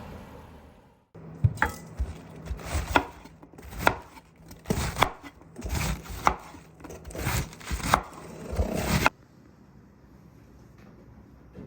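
Repeated knocks of a knife chopping on a cutting board, irregular at roughly one a second, starting and stopping abruptly.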